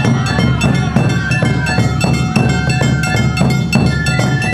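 Awa Odori festival band music: shinobue flute holding the melody over a quick, even beat of kane hand-gong strikes and shime-daiko and ōdaiko drums.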